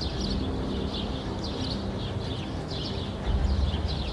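Small birds chirping in short, irregular high calls over a steady low rumble.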